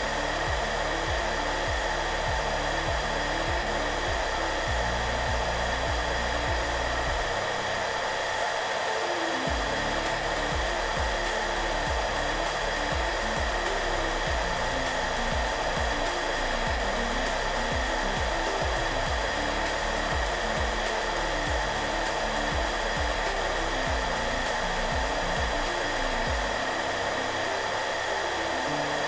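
Hair dryer running steadily, a continuous airy whoosh with a constant whine, under soft background music whose low notes change every second or so.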